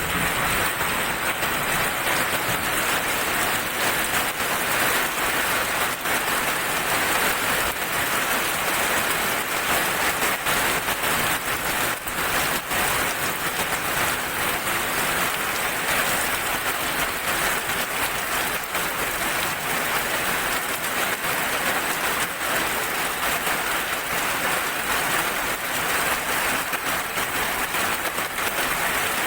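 Steady heavy rain falling on a surface, a dense even hiss with fine drop patter.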